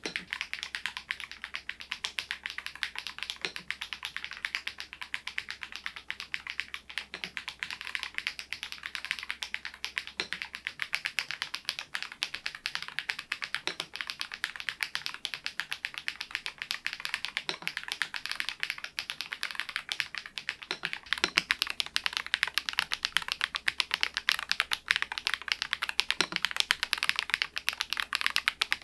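SMURVE80 retro mechanical keyboard typed on steadily with its switches alone, the solenoid module not engaged: a fast, continuous patter of key clicks with an occasional deeper knock. It gets somewhat louder about two-thirds of the way through.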